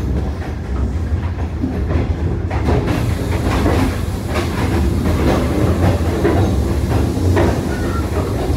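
A passenger train running, heard from inside the carriage: a steady low rumble with irregular clacks of the wheels over the track. From about three seconds in, the clacks come more often and a hiss rises over the rumble.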